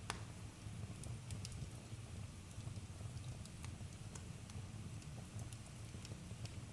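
Campfire crackling: scattered sharp pops, the sharpest right at the start, over a steady low rumble.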